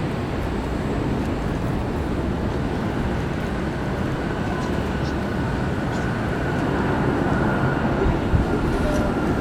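Jet airliner engines running, a steady low rumble with a faint high whine that grows a little stronger from about halfway through.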